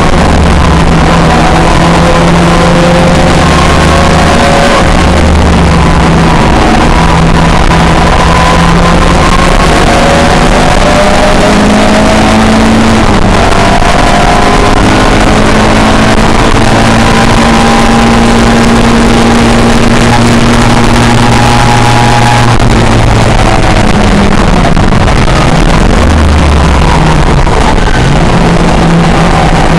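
Several pre-1966 touring car racing engines running hard at the same time, each rising and falling in pitch through acceleration, gear changes and lifts, over a loud constant rushing noise.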